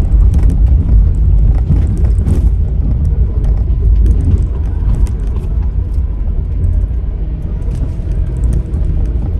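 Honda N-BOX kei car driving, heard from inside the cabin: a steady low rumble of engine and tyres with scattered light knocks.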